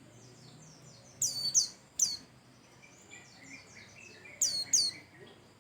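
A white-eye (pleci) singing: loud, sharp, high calls that sweep steeply down in pitch, mostly in pairs, about a second in, at two seconds and again near the end. Between them come softer high twittering chirps and a run of lower, quicker notes.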